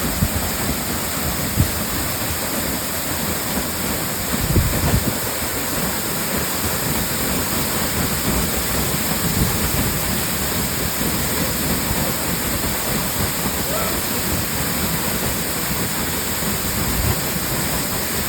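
Waterfall: a steady, loud rush of falling water, with a few brief low rumbles, the strongest about four and a half seconds in.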